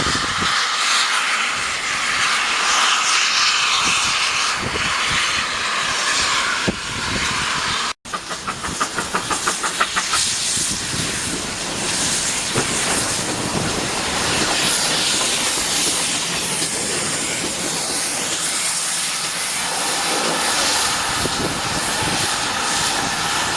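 Steam locomotive hissing steadily for about eight seconds; then a quick run of regular exhaust beats, about five a second, gives way to the steady running noise of the train.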